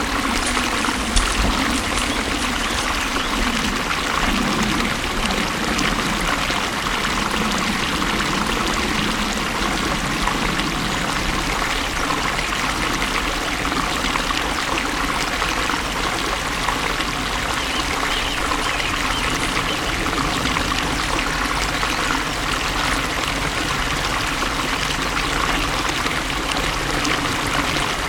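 Flowing water running steadily, a continuous rushing splash.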